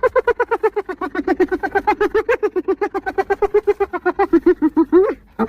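Spotted hyena giggling: a long unbroken run of quick, high yelping notes, about ten a second, drifting slightly lower in pitch and ending on a short rising note, then a brief pause before the next bout starts.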